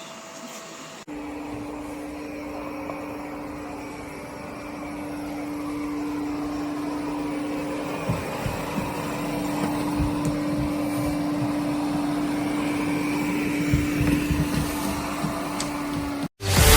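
Airzeen R7 robot vacuum running: a steady motor hum over a whir of suction, growing louder over several seconds, with a few low knocks in the second half. It cuts off near the end.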